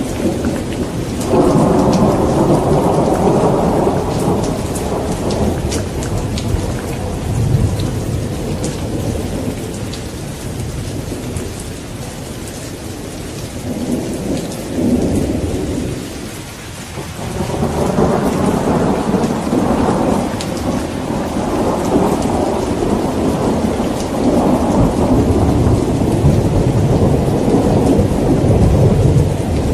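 Rain falling steadily during a thunderstorm, with rolling thunder: a rumble swells about a second in and slowly fades, then after a brief lull a second, longer roll builds past the halfway point and carries on to the end.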